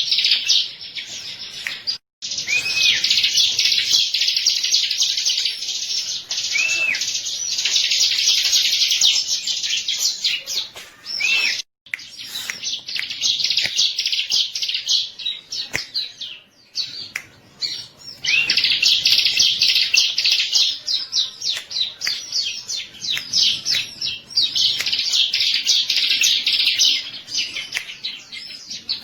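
Bar-winged prinia (ciblek) singing: long bursts of fast, high-pitched chattering trills and chirps, broken by two abrupt brief gaps.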